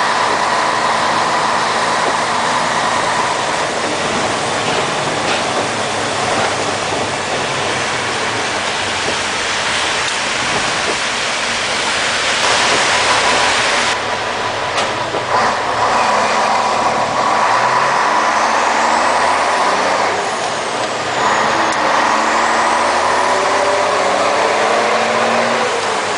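Scania 110 Super truck running under way, its diesel engine and road noise loud and steady, with the engine note rising and falling several times in the later part.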